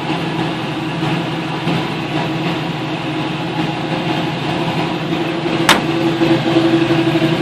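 Chevy C10 pickup's engine idling steadily, with one sharp click a little over halfway through.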